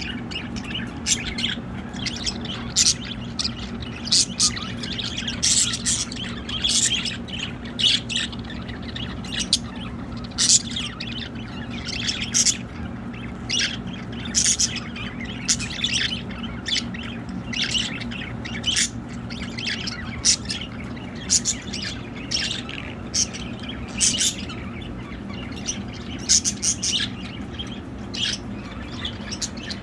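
Pet budgerigars chirping and squawking, a constant stream of short, sharp calls. A steady low hum runs underneath.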